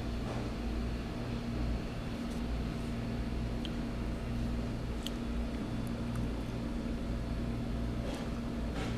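Steady low mechanical hum with a constant tone, and a few faint short ticks.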